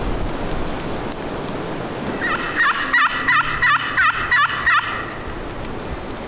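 A series of about eight turkey yelps, about three a second, starting a little after two seconds in and ending near five seconds, with wind noise underneath.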